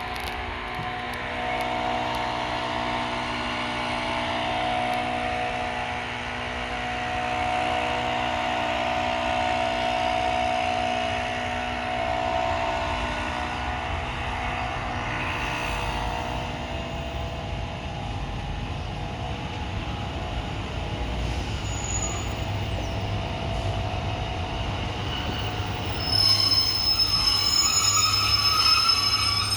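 A train running with a steady pitched mechanical drone, and high squealing from the wheels starting near the end, where it gets louder.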